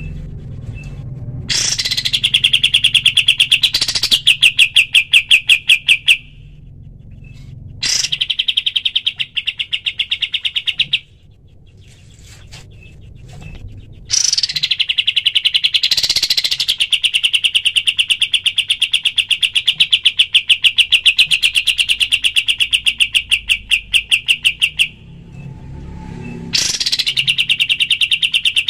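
Kapas tembak bird singing its rapid-fire 'tembakan' song: fast, even strings of sharp repeated notes, each string opening with a quick rising note, in four bursts broken by short pauses, the longest lasting about ten seconds.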